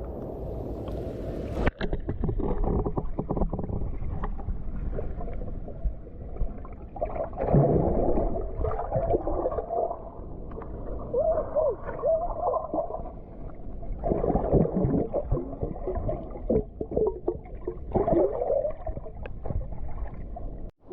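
Muffled underwater sound of moving water and bubbling, heard with the microphone submerged in a freshwater pool. A steady low rumble runs throughout, with warbling, wavering gurgles coming and going in several bursts.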